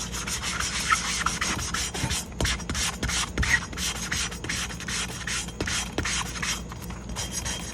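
Sanding block scrubbing white paint off a glass globe light fixture, in quick repeated back-and-forth strokes.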